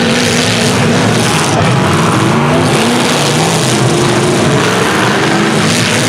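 Several small-truck, van and SUV engines revving hard in a demolition derby, their pitch rising and falling against each other under a steady wash of noise.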